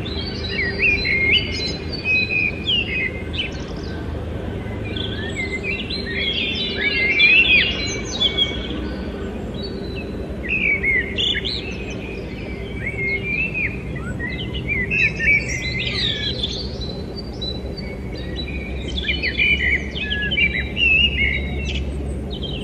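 Birds chirping and twittering in quick clusters of short high notes, over a steady low hum.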